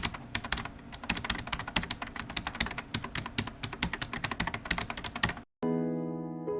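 Rapid clicking of keys being typed on a keyboard, stopping abruptly about five and a half seconds in. Soft piano music begins right after.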